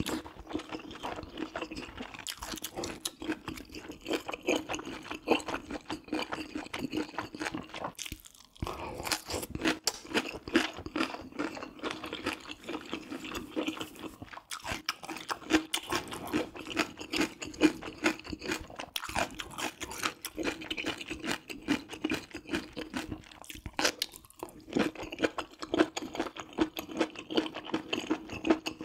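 Close-miked chewing and biting of spicy braised pork ribs with rice cakes and mushrooms: continuous wet, clicky mouth sounds with a few brief pauses between mouthfuls.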